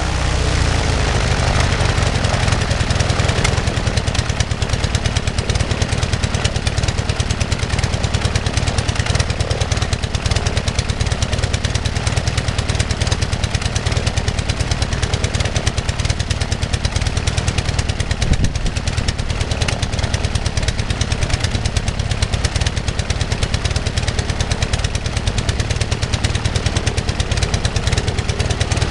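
Global half-VW two-cylinder four-stroke boxer aircraft engine running steadily with its propeller turning, a rapid even exhaust pulse with no change in speed.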